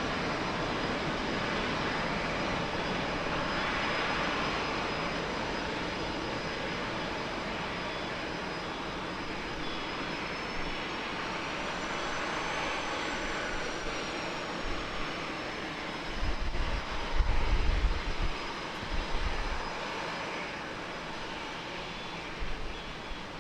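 Boeing 737-800 jet airliner's engines at takeoff power, a steady rumble, with a thin high whine that rises and falls near the middle. Wind buffets the microphone toward the end.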